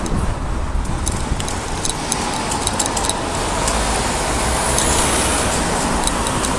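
Steady rumble of riding noise on a moving bicycle: wind buffeting the microphone and tyres on the road, with faint light ticks over it.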